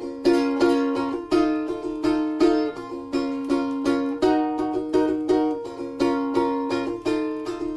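Instrumental folk-tune passage on a plucked string instrument, with a steady rhythm of picked notes and chords at about two strikes a second between sung chastushka verses.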